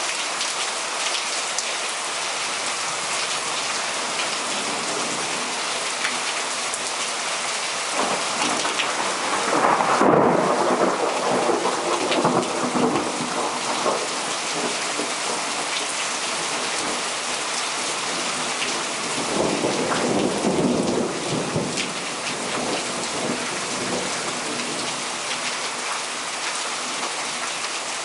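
Heavy downpour hissing steadily, with two rolls of thunder rumbling over it: a louder one swelling about a third of the way in and a second, weaker one about two-thirds of the way through.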